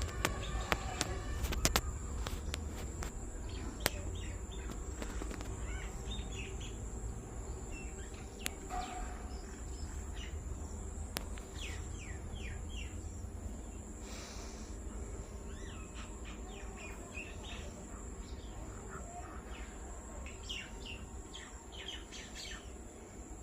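Small birds chirping in short, quick calls, several at a time, over a low steady rumble.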